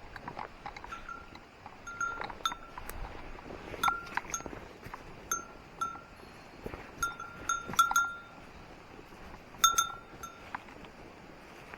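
A small metal bear bell ringing in irregular single strikes, about a dozen short, clear rings, with a brief clink at the start of each.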